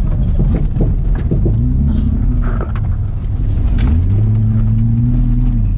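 Holden VS Commodore's engine running hard, heard inside the cabin over a heavy rumble of the car on a rough dirt surface, with scattered knocks early on. About a second and a half in a steady engine note comes up, and about four seconds in it drops slightly lower and holds.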